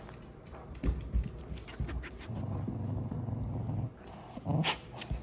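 A dog growling: a low, steady growl of about a second and a half in the middle, with a couple of knocks before it and a sharp, louder sound near the end.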